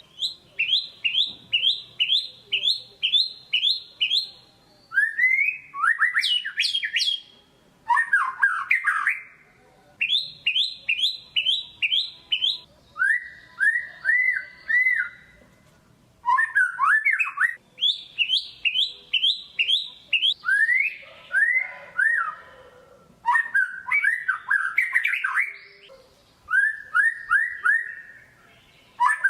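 White-rumped shama (murai batu) in full, vigorous song: runs of rapid repeated whistled notes, about three a second, alternating with swooping and rattling phrases, with short pauses between phrases.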